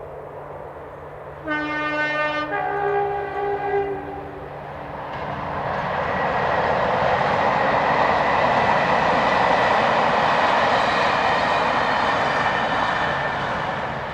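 A pair of Class 37 diesel locomotives sounding a two-tone horn, one note then a lower-sounding second note, about a second and a half in. Then the locomotives approach and pass, their English Electric V12 diesel engines and wheels building to a loud rush that fades away near the end.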